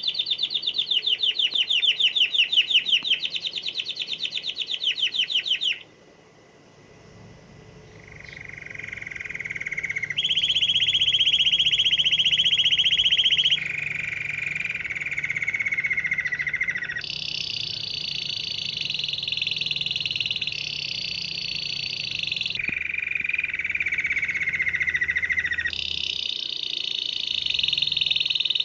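Canary singing in a run of rapid trilled rolls. Each roll repeats one note many times a second for two to four seconds, then switches abruptly to a new pitch. The song breaks off about six seconds in and resumes about two seconds later.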